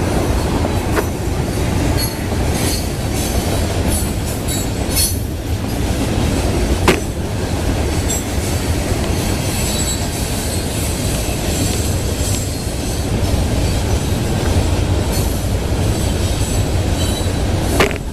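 Freight cars of a Florida East Coast Railway rock train rolling past: a steady rumble and clatter of wheels on rail, with a thin high wheel squeal and a few sharp clanks, one about a second in, one near the middle and one near the end.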